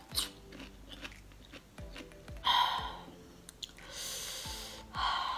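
Close-miked chewing of crunchy fruit, with small mouth clicks and crunches. Three louder breathy bursts come in the second half, over faint background music.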